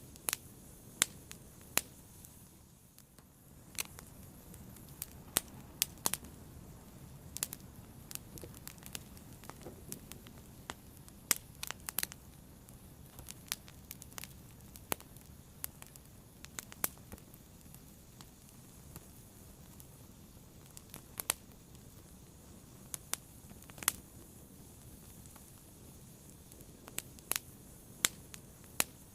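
Wood fire burning, with sharp irregular pops and crackles over a soft low rumble of flame.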